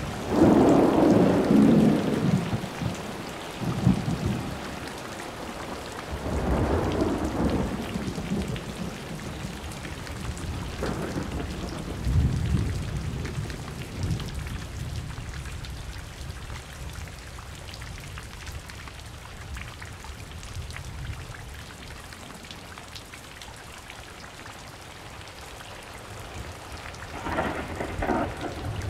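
Thunderstorm: a loud thunderclap right at the start, then rolling rumbles that come and go over steady rain. Near the end another crackle of thunder.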